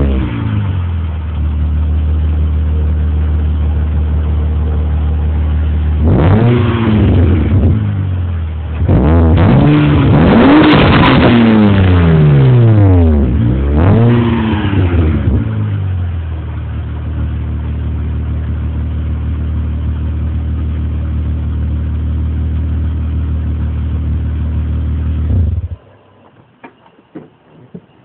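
2003 Hyundai Tiburon GT's 2.7-litre V6 through its stock exhaust, just started and idling, revved once at about six seconds and in several quick blips between about nine and fifteen seconds, then back to a steady idle. The exhaust note carries a moan that the owner puts down to the stock resonator. The engine cuts off near the end.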